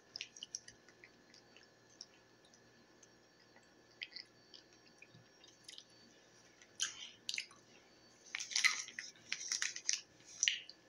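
A person chewing a bite of a Nature Valley Sweet and Salty Nut peanut granola bar close to the microphone: small mouth clicks, then louder bursts of chewing about seven seconds in and again from about eight to ten seconds in.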